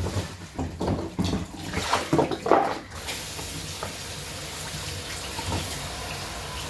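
Kitchen tap running into a sink as carrots are washed under it. The first few seconds hold uneven knocks and clatter, then the water settles into a steady rush.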